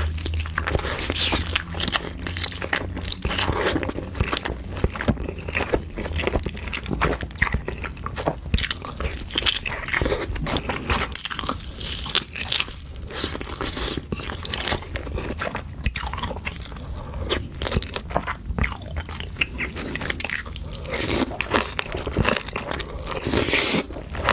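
Close-miked eating sounds: a person biting, crunching and chewing seafood, with dense irregular crunches and wet clicks throughout.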